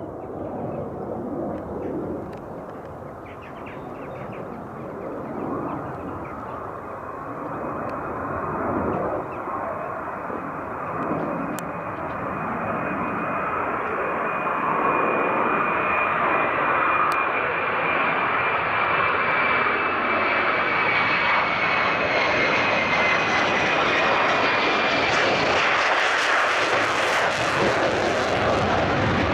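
Military fighter jet approaching on a low approach, its engine noise growing steadily louder, with a high whine over the roar. It is loudest near the end.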